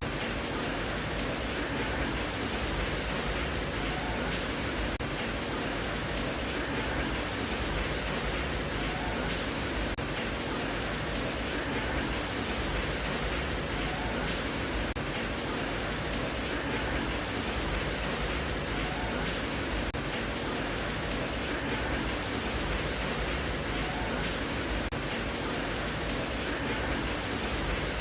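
Steady rain sound: an even, unbroken hiss of falling rain with no separate drops or breaks, played as a sleep sound for a baby.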